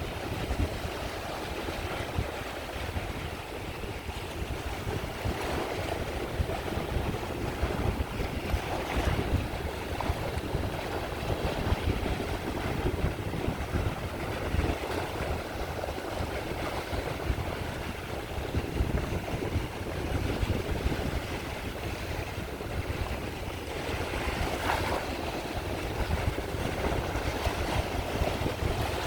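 Caspian Sea waves breaking and washing onto the shore in repeated surges every few seconds, over a steady low rumble of wind on the microphone.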